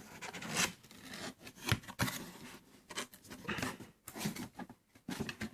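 Packaging being handled and pulled open: irregular scraping and rubbing with a few light knocks.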